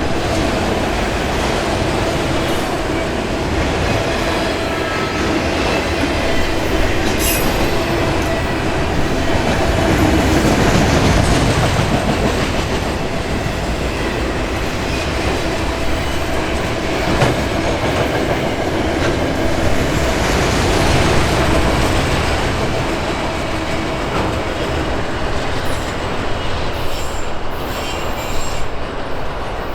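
Intermodal container cars of a freight train rolling past: steady, loud wheel-on-rail noise with faint steady wheel squeal, and a run of clicks over rail joints near the end.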